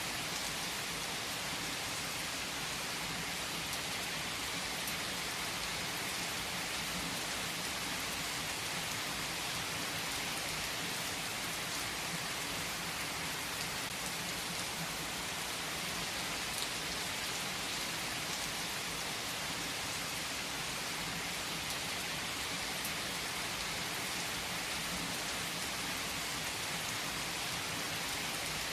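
Steady rain falling on surfaces, an even hiss with individual drops now and then.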